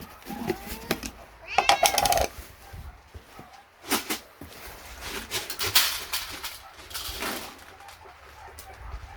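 A cat meowing twice, loudly, in the first two seconds, followed by scattered scuffing and crackling noises.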